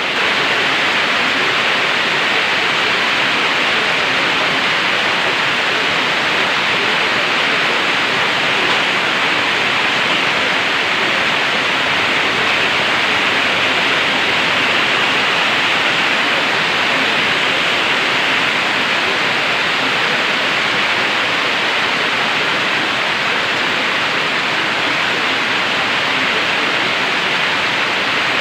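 Heavy typhoon rain pouring steadily: a dense, even hiss with no breaks.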